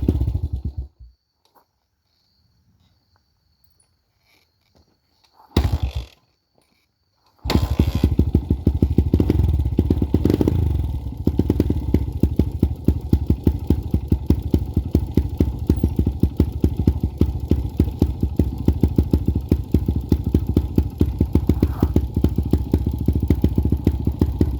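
Honda CRF100 dirt bike's single-cylinder four-stroke engine running, then dying about a second in. After a few seconds of quiet it catches briefly and cuts out, then at about seven seconds fires again, revs up and back down, and settles into a steady run. It is a cold start after weeks of sitting, with the engine stalling whenever the throttle is released.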